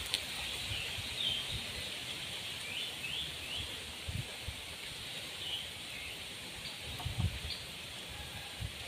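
Stream-side ambience: scattered short bird chirps over a steady high hiss, with a few low knocks of handling noise.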